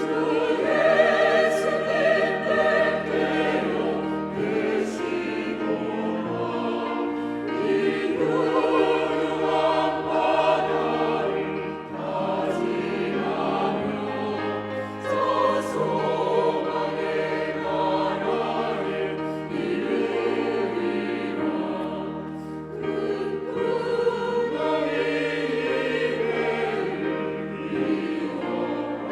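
Church choir singing a Korean hymn in parts, the phrases swelling and easing every few seconds over sustained low accompanying notes.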